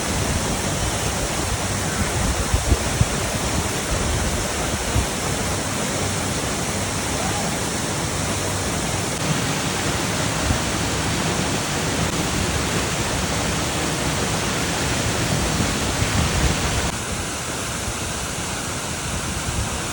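Sendang Gile waterfall: a steady rush of falling water. It becomes slightly quieter and duller near the end.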